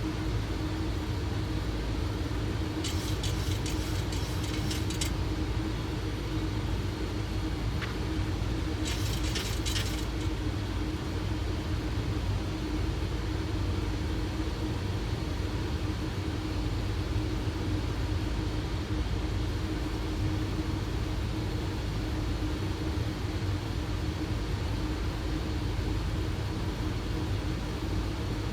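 Steady flight-deck noise of a Boeing 737 on final approach with landing gear down and flaps 15: a constant rush of airflow with a steady hum. There are two short bursts of crackling clicks, about 3 and 9 seconds in.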